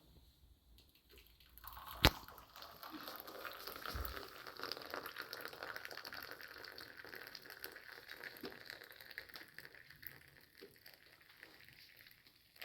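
Hot tea being poured into glasses: a sharp clink about two seconds in, then liquid running steadily for several seconds before tapering off.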